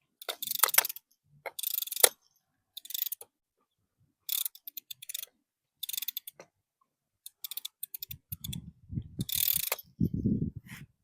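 Fishing reel being cranked in short bursts, a fast ratcheting whir about every second and a half. A low rumble comes in near the end.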